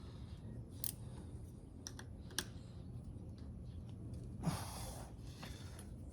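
A few light, sharp metal clicks of sockets and hand tools being handled, with a brief scraping rustle about four and a half seconds in.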